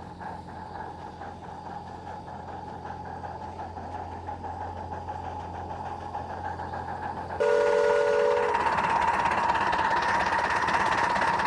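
Miniature live-steam locomotive running, its exhaust chuffing in a quick regular beat that grows louder. About seven seconds in, the sound jumps louder: its steam whistle blows a chord for about a second, then a loud steady hiss of steam carries on.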